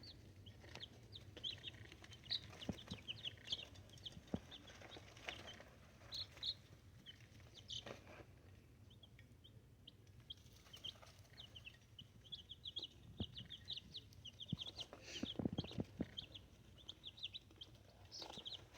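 Young chickens peeping, many short high peeps in quick succession, with scattered knocks and scuffing, a cluster of them about three quarters of the way through.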